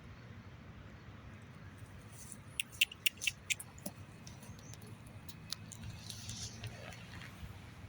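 Squirrel making a quick run of about six sharp cracks and clicks near the middle, then scattered fainter clicks.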